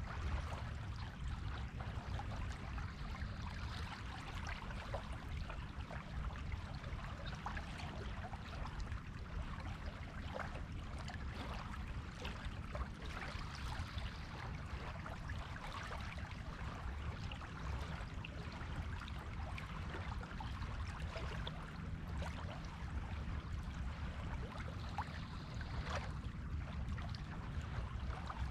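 Waves washing on a beach: a steady rush of surf with fine crackling foam, swelling a little about every ten seconds.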